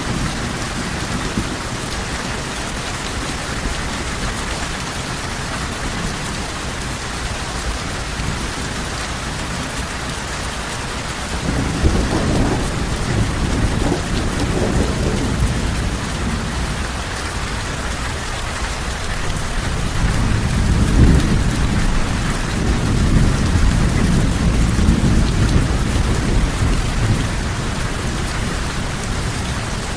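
Steady heavy rain falling on a surface, with two long low rolls of thunder, the first about a third of the way in and the second, stronger, about two-thirds in.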